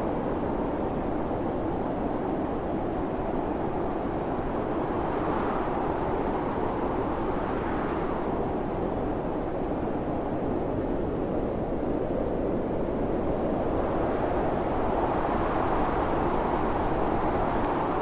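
Strong blizzard wind blowing steadily, with gusts swelling and easing about five seconds in, again around eight seconds, and near the end.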